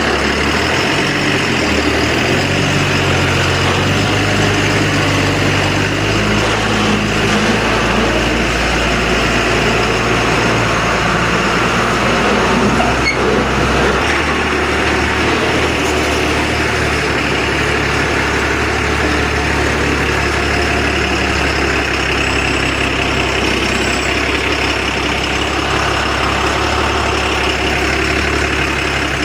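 Truck engine running, its pitch stepping up and down several times in the first half, then holding at a steady idle.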